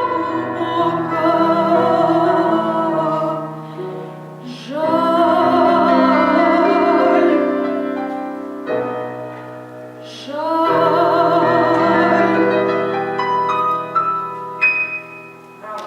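A female voice singing a Russian romance in classical style with wide vibrato, over piano accompaniment, in two long held phrases. Near the end the voice stops and the piano plays a few single closing notes.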